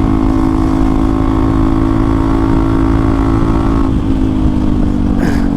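Hero Xpulse 200 4V single-cylinder engine running under way through an Akrapovic exhaust with the dB killer removed, holding steady revs and then easing off slightly about four seconds in.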